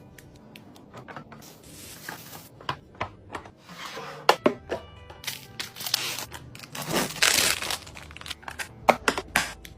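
Plastic packaging crinkling and rustling, with sharp clicks and knocks of food containers being handled and set down, the longest rustles about four seconds in and again from six to seven and a half seconds, over soft background music.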